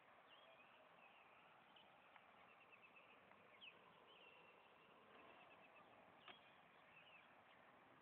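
Faint songbird singing at night: quick runs of short chirps and rising and falling whistled notes, heard over a steady hiss, with a couple of brief clicks.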